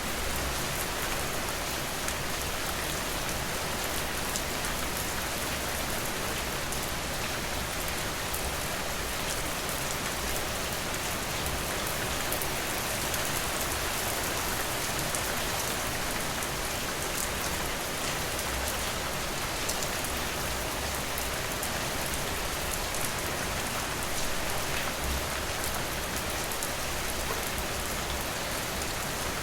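Steady rainfall with fine, close drop patter, as of rain tapping on a window.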